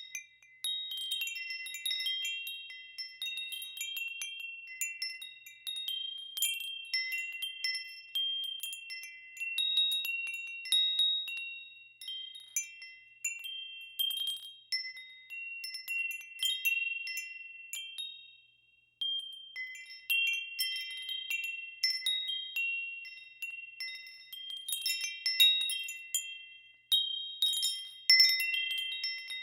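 Wind chimes ringing in the wind: several high tones struck at random, overlapping and ringing on, with a brief lull about two-thirds of the way through.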